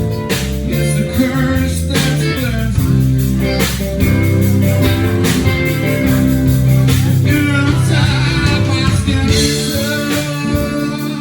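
Live blues-rock band playing an instrumental passage, with guitar to the fore.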